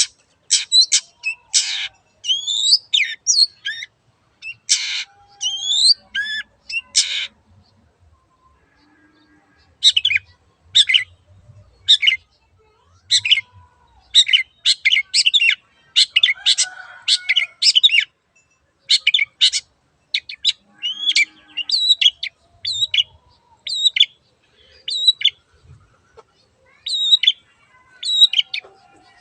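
Long-tailed shrike (cendet) singing energetically: rapid runs of harsh, scratchy notes mixed with looping whistled phrases, with a pause of about two seconds partway through.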